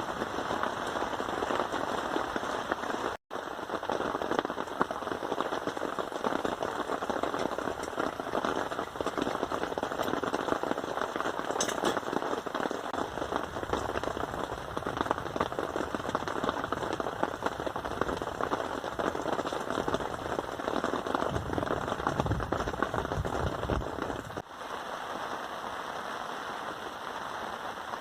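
Heavy rain falling, a dense, crackly patter of drops hitting a surface. The sound cuts out for an instant about three seconds in and turns quieter a few seconds before the end.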